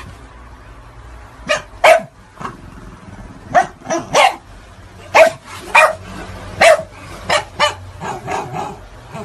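A dog barking repeatedly, about a dozen short, sharp barks at irregular intervals, beginning about a second and a half in.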